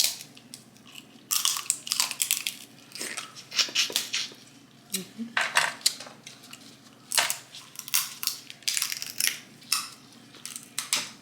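Snow crab leg shells being cracked and snapped open, heard as crisp, crunchy cracks in repeated short bursts.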